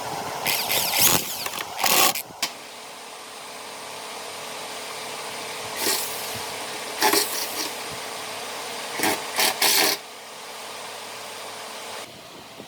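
A power tool running steadily on wood, with several short, loud bursts as it bites or is pressed into the work; the steady running stops about twelve seconds in.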